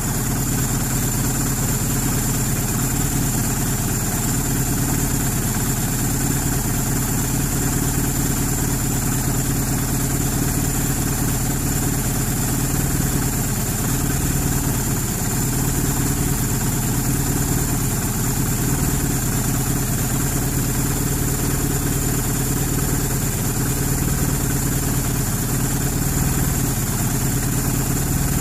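1991 Eagle Talon TSi AWD's turbocharged 2.0-litre 4G63 four-cylinder idling steadily, with the ticking noise that the owner is trying to track down.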